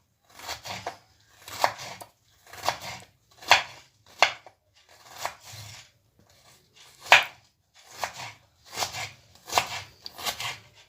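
A kitchen knife slicing through vegetables onto a cutting board, about one slow stroke a second, each a short cut ending in a knock on the board, with a short pause about six seconds in.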